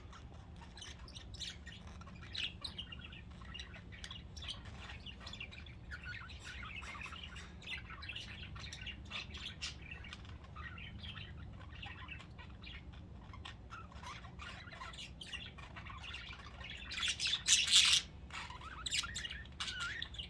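Several budgerigars chirping and chattering, with a louder burst of chatter near the end.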